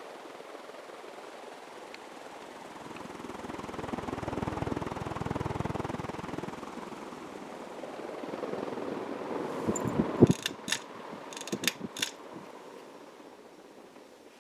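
36-inch Emerson Designer ceiling fan running on high, its blades moving air with a steady rush that swells with a low rumble for a few seconds. Near the end comes a quick cluster of sharp clicks, and then the sound eases off.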